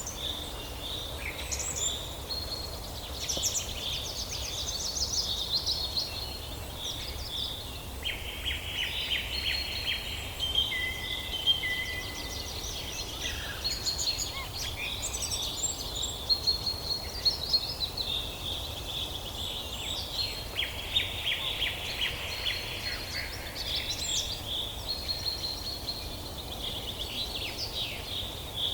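Woodland birdsong: several birds singing and calling at once, with overlapping chirps and rapid trills, over a low steady rumble.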